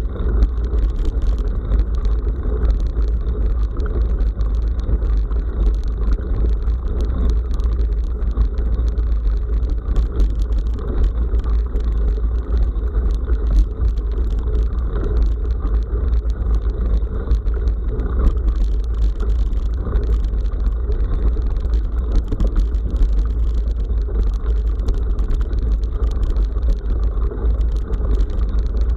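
Bicycle riding over a rough forest track: a steady low wind rumble on the microphone, with constant small clicks and rattles from the tyres and frame on the uneven surface.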